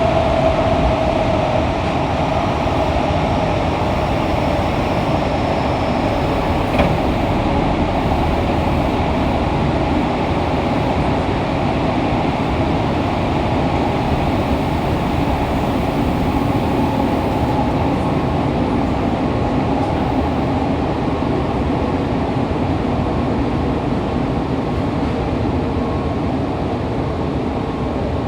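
Fukuoka City Subway 2000 series car (Hitachi GTO-VVVF set 23) running through the tunnel, heard from the floor inside the car: a steady, loud rumble of wheels on rail. A motor/inverter tone at the start fades out after about two seconds, and there is a single sharp click about seven seconds in.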